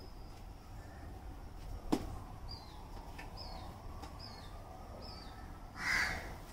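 A small bird repeating a short, high, falling chirp four times, a little under a second apart. A single sharp click comes about two seconds in, and a brief rustling burst near the end, over a low steady background.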